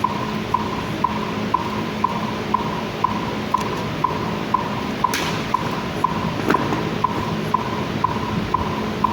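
Steady metronome-style click beat, about two ticks a second, keeping time for a silent drill routine over a steady background hum. A sharp slap or crack sounds about five seconds in, with a smaller knock about a second and a half later.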